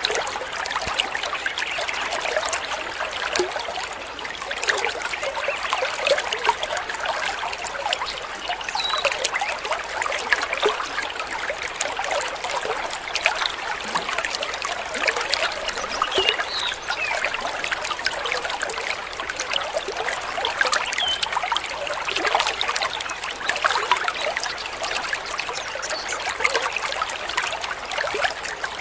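Water trickling and babbling steadily over stones, like a small stream.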